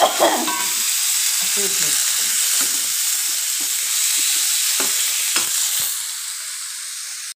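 Chopped gourd sizzling in hot oil in a wok while a steel spoon stirs it, with a couple of sharp taps of the spoon against the pan. The sizzle grows quieter near the end.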